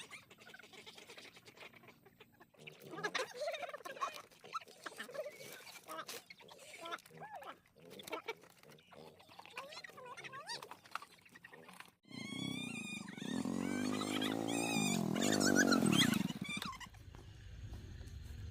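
Farm animals calling: scattered short calls with clicks and rustle, then after an abrupt break about 12 seconds in, a louder drawn-out call that rises and falls in pitch for about four seconds.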